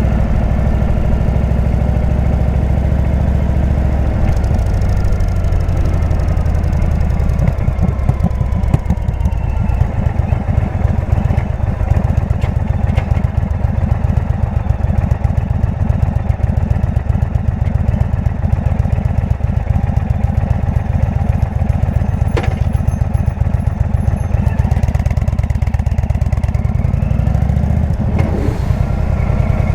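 Indian V-twin motorcycle engine running through a Jekill & Hyde exhaust on the move; the engine note changes about four seconds in, then holds steady.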